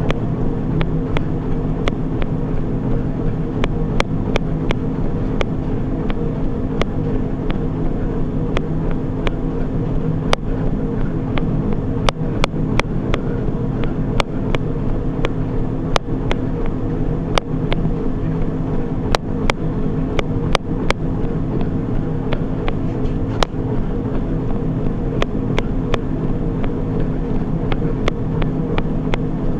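Treadmill running steadily: a constant motor and belt hum with several fixed low tones, crossed by sharp clicks at irregular intervals.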